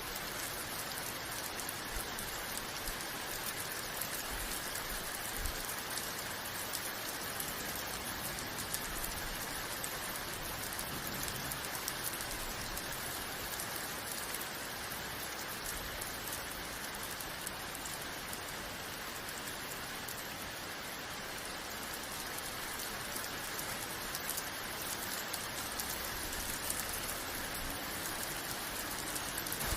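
Steady rain falling, an even hiss with fine patter of drops hitting a surface.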